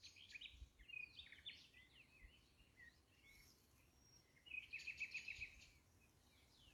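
Small birds chirping and calling, faint, with short rising and falling notes; about four and a half seconds in one bird gives a quick run of about eight chirps, the loudest part.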